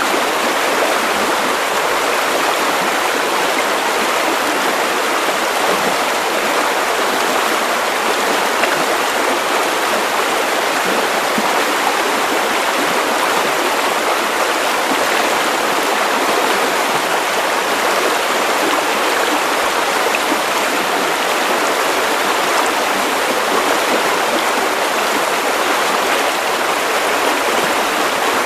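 Steady, unchanging white noise: an even hiss with little bass, strongest in the middle range.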